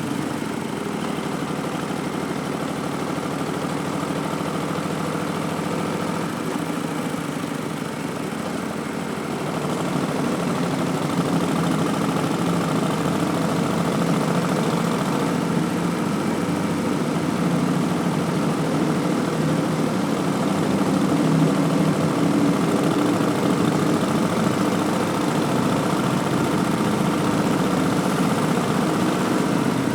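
2019 Harley-Davidson Street Bob's Milwaukee-Eight 107 V-twin running through Vance & Hines Twin Slash slip-on mufflers. The sound is steady, getting a little louder about ten seconds in.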